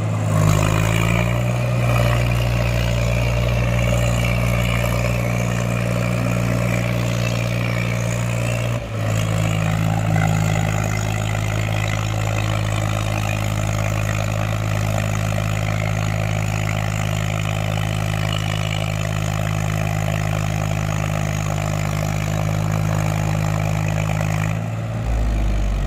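Mahindra tractor's diesel engine running steadily, with a brief dip in the engine note about nine seconds in.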